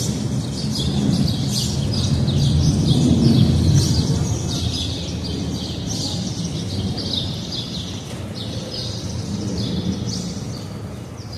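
Small birds chirping busily and continuously, many short repeated chirps, over a low rumble that swells a few seconds in and then slowly fades away.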